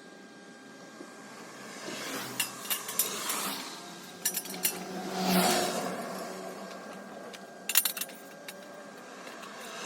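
Light metallic clinks and knocks of steel parts and tools being handled, in small clusters, with two swells of hiss around the middle, the louder one about halfway through.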